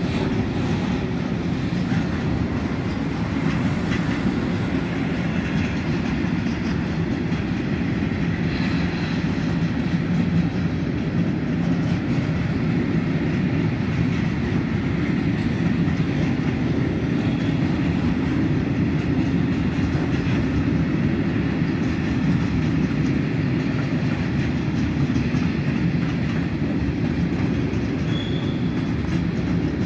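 Intermodal freight train of container wagons rolling past, its wheels on the rails making a steady low rumble that holds even throughout.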